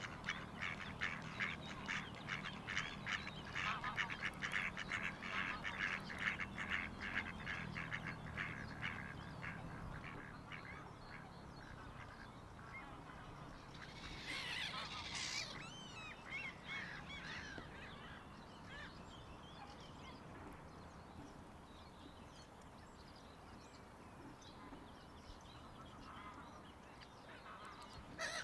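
Waterfowl calling at a lake: a fast run of repeated calls for the first ten seconds or so that then fades, and a short burst of higher, wavering bird calls about halfway through.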